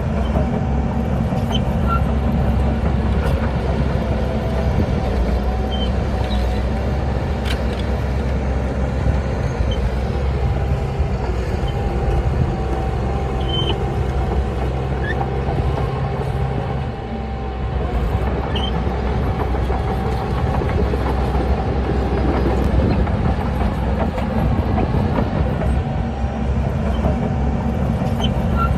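Heavy diesel engine of earthmoving machinery running steadily under load, with a steady higher whine over the low engine note. The sound dips briefly about two-thirds of the way through, then comes back up.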